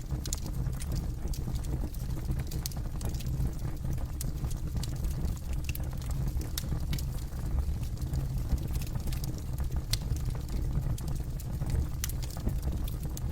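Wood fire burning: irregular sharp crackles and snaps scattered over a steady low rumble of the flames.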